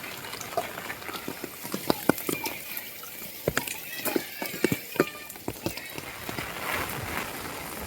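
Heavy rain falling steadily, with irregular sharp drips and splats of big drops landing close by.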